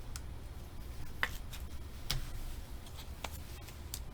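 Trading cards being handled and flipped through, giving about five short, sharp clicks and flicks at uneven intervals over a steady low hum.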